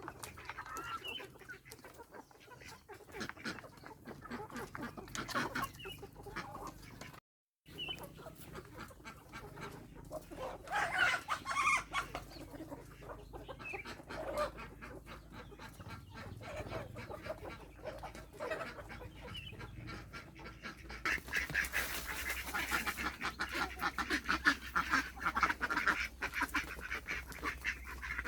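Flock of chickens clucking and calling, with ducks among them, getting louder and busier in the last several seconds. A brief cut to silence about a quarter of the way in.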